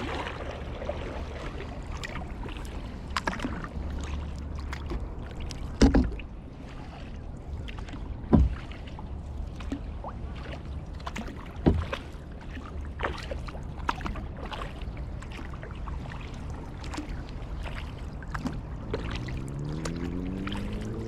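Kayak paddling on a lake: water splashing and dripping off the paddle with small clicks, and three loud knocks spread through the middle. A rising tone begins near the end.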